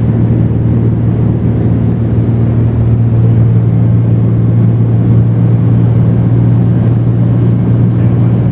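Cessna 210's six-cylinder piston engine and propeller droning steadily in flight, heard inside the cabin as a loud, even low hum.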